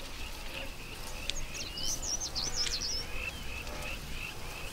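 Outdoor natural ambience: a bird's rapid, high twittering song from about one to three seconds in, over a short chirp repeating two or three times a second and a low steady rumble.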